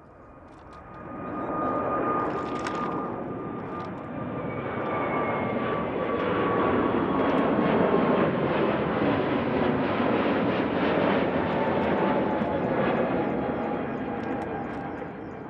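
Jet airliner engines passing close by. The engine noise builds about a second in, holds loud, and fades near the end, with a whine that slowly falls in pitch as the aircraft goes past.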